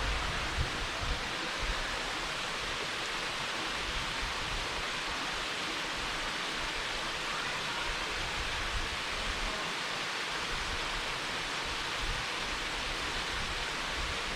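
Waterfall: a steady, even hiss of falling water with no breaks.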